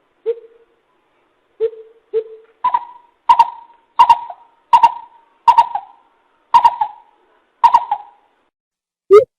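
Coucal (bìm bịp) calling: a slow series of hoots, the first three lower-pitched, then about seven higher notes spaced under a second apart.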